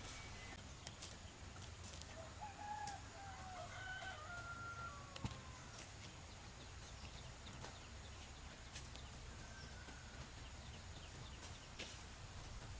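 A rooster crowing once, faintly, from about two to five seconds in, over a low steady background with scattered small clicks.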